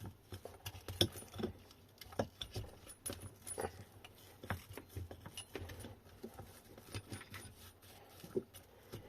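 Irregular small clicks, taps and light rattles of hands working wiring and a hall sensor connector loose, some of them a little louder.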